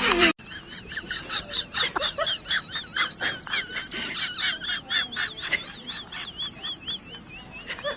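Rapid, high-pitched chirping calls, several a second, some wavering up and down in pitch.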